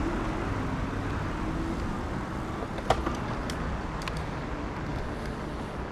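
Steady road traffic noise with a low rumble of wind and movement, and a single sharp click a little under three seconds in.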